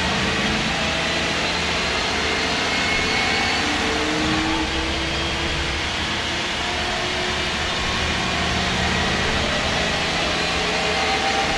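MAN SD202 double-decker bus under way, heard from inside: its MAN D2566 MUH straight-six diesel and Voith Diwa 851 automatic gearbox running steadily. About four seconds in the engine note briefly changes, then climbs in pitch for a couple of seconds.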